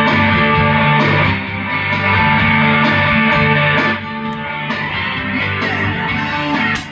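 Plucked strings played through the repaired Ampeg SVT-VR tube bass amplifier, sustained notes with a strong low end, a sign the amp is passing audio again. The playing stops near the end.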